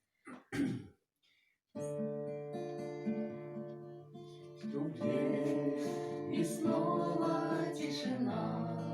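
Two sharp knocks on a door, then after a short pause an acoustic guitar starts a song intro, growing fuller and louder about five seconds in.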